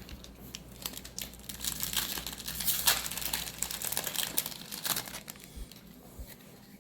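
Foil wrapper of a Magic: The Gathering booster pack crinkling as it is torn open and handled, busiest in the middle.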